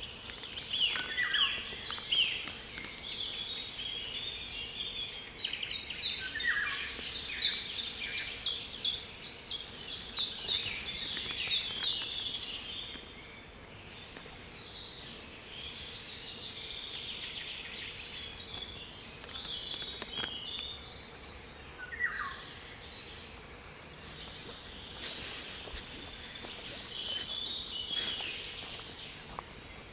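Several songbirds singing over one another. For about six seconds, a third of the way in, one bird repeats a sharp, high note about three times a second, louder than the rest.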